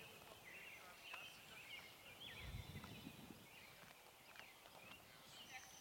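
Faint birdsong: many short high chirps and trills from small birds, with a brief low rumble about two and a half seconds in.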